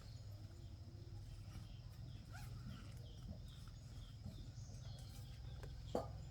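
Faint outdoor background with a steady low hum, and a small bird chirping in a run of short high notes about twice a second through the middle. A single sharp click comes near the end.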